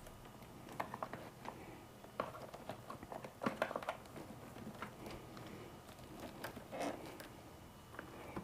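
Scattered small clicks and short rustles of hands handling motorcycle wiring and plastic connectors, coming irregularly with a busy stretch in the first half and a few more near the end.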